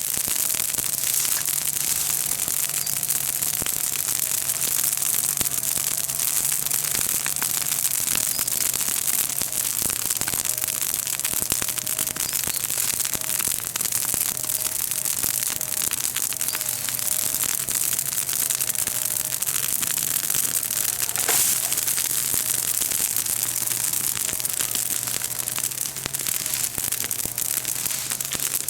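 Bonfire of freshly broken green chestnut-tree leaves and twigs crackling and popping fiercely in a dense, continuous stream, with a faint low hum underneath.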